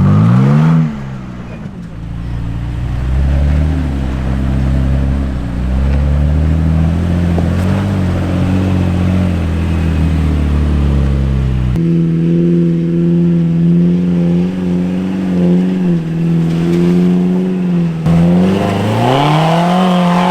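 Off-road truck engine labouring up a hill climb. A rev rises and falls at the start, then a low steady drone under load. About twelve seconds in it switches abruptly to a higher, steady engine note, and near the end another rev rises.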